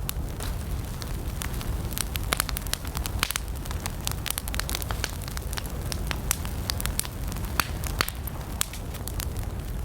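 Campfire of burning wood crackling: many irregular sharp pops and snaps over a steady low rumble from the flames.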